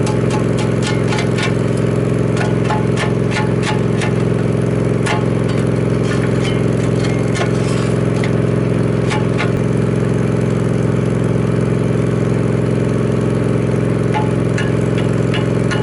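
Toro Dingo compact utility loader's engine running steadily under work, with many sharp clicks and scrapes through the first half and again near the end.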